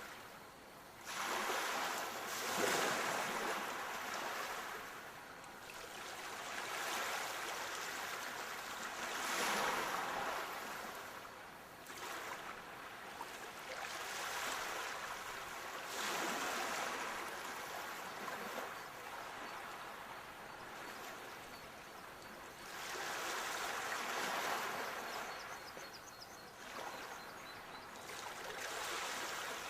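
Sea waves surging onto the shore over a steady wash of surf. Each wave swells and then fades over several seconds, about four of them at intervals of roughly seven seconds.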